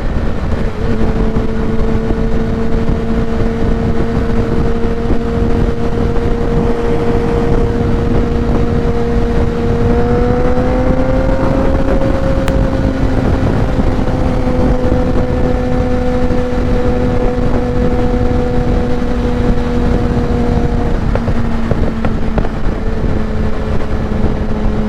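Kawasaki ZX-10R's inline-four with a Graves race exhaust running at a steady highway cruise under heavy wind rush on the microphone. The engine note rises a little about ten seconds in, then eases back and holds.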